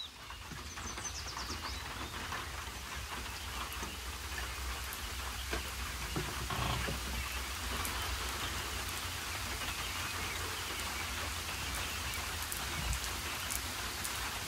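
Steady rain pattering on a clear corrugated roof, a dense even patter of drops that builds over the first couple of seconds and then holds.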